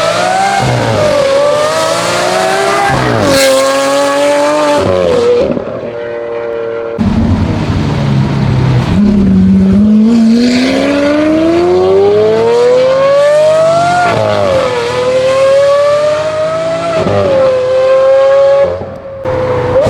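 Lamborghini Aventador LP720-4's 6.5-litre V12 running loud and high-pitched through a Brilliant aftermarket exhaust, revved repeatedly. The pitch goes up and back down in blips, then climbs steadily for about five seconds before falling back and settling.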